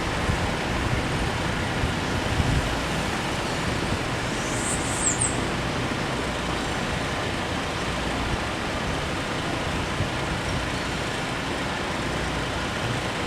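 Steady street traffic noise, a constant rumble and hiss of passing vehicles. A brief high squeak comes about five seconds in.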